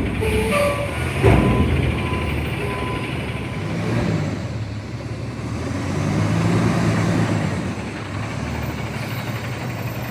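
CNG front-loader garbage truck's engine running, swelling for a few seconds about six seconds in, with a short knock about a second in.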